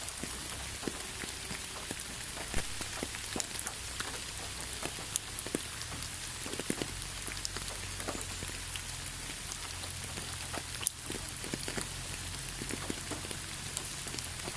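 Steady rain falling, with many scattered individual drops tapping sharply close by.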